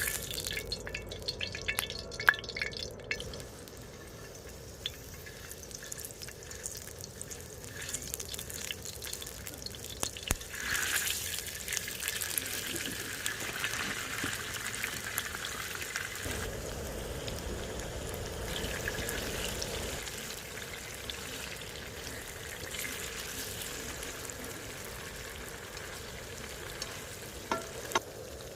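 Food frying on a hot pan or griddle: a steady sizzle that swells about ten seconds in, with scattered clicks and taps in the first few seconds.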